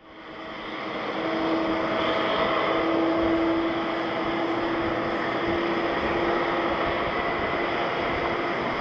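Jet engines of a Skymark Boeing 737-800 airliner running, a steady rushing roar with a droning tone through it, fading in over the first second or so.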